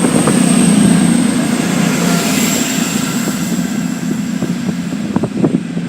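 Diesel engines of a double Class 221 Super Voyager set working as the train pulls out: a steady low drone with a thin high whine above it, easing off slightly over the few seconds.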